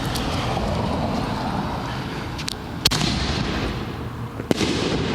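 A 6-inch canister firework shell going off: a steady hiss, then two sharp booms, the first about three seconds in and the second about a second and a half later.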